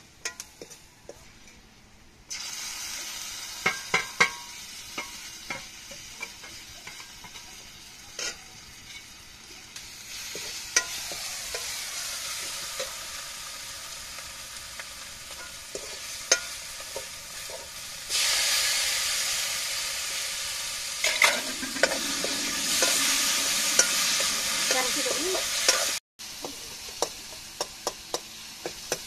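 Onions and spices sizzling in oil in a steel kadhai, while a steel ladle stirs and scrapes, clinking against the pan. The sizzle gets louder about two seconds in, is loudest in the later part and cuts off suddenly near the end.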